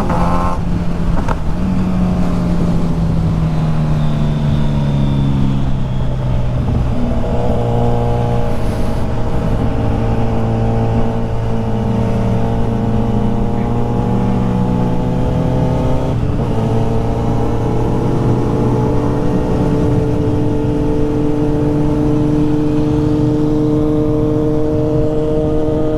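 Motorcycle engine running under way, with wind noise on the microphone. The engine note falls over the first few seconds, steps about six and sixteen seconds in, then climbs slowly as the bike accelerates.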